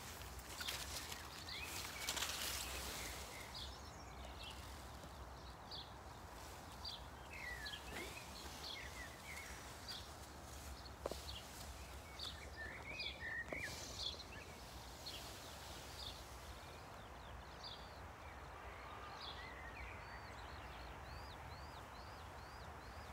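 Small birds chirping in short, high calls scattered throughout, ending in a quick run of repeated chirps near the end, over a low steady background rumble. Some rustling in the first few seconds.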